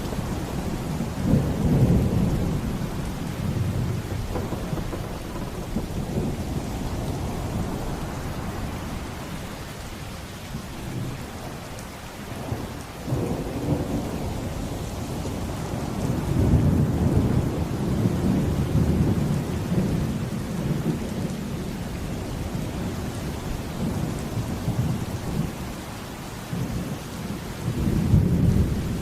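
Steady heavy rain with rolling thunder. Several long, deep rumbles rise and fade over the rain: the biggest comes about a second in, a longer roll about halfway through, and another starts just before the end.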